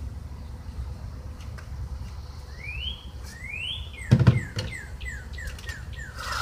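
A songbird whistling: two rising whistles, then a quick run of short falling notes, about three a second. About four seconds in, a few knocks with a dull thump, the loudest sound, as the lumber is handled, over a low steady rumble.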